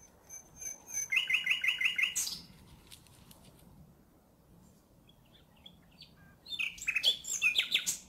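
A songbird singing two short phrases of quickly repeated high notes, the first about a second in and the second near the end.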